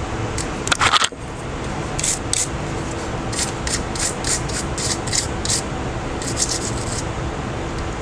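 A hand tool scraping and rubbing against a smartphone's parts during disassembly: short scratchy strokes in quick runs, loudest about a second in, over a steady hum.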